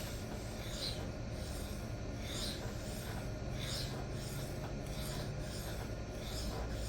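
D2 steel knife blade drawn across a diamond sharpening stone in freehand sharpening strokes: an abrasive rasping scrape repeating at an even pace, roughly one stroke a second.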